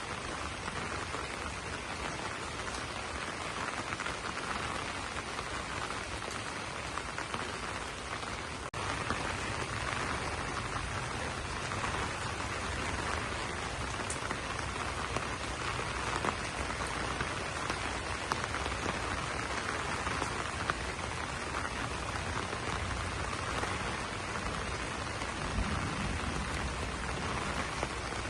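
Steady rain falling on banana leaves, a dense even patter of drops, with a momentary break about nine seconds in.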